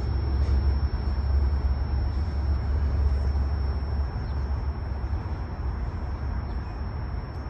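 Freight train of tank cars rolling along the track, a steady low rumble with rail noise that eases about four seconds in as the cars move away.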